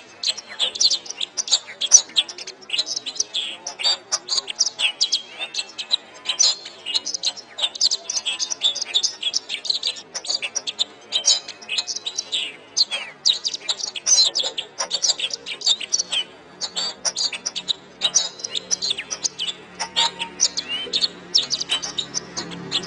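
Domestic canary singing a fast, unbroken song of rapid chirps and rolling trills, pitched high.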